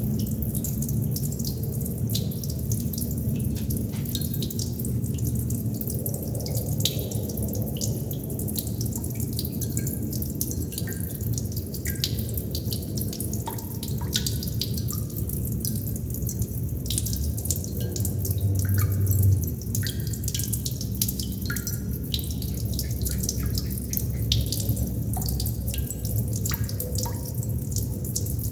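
Water droplets dripping irregularly, many small drips and plinks over a steady low water rumble, with a brief louder low swell about two-thirds through.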